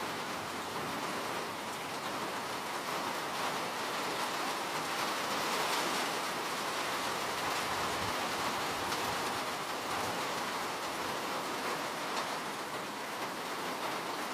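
Steady rain pattering on a surface, an even hiss with faint individual drops.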